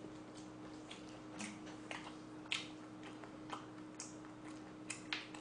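Faint, soft mouth clicks and smacks of close-up chewing, about two a second, on a mouthful of jokbal pork wrapped in lettuce and perilla leaf, over a faint steady hum.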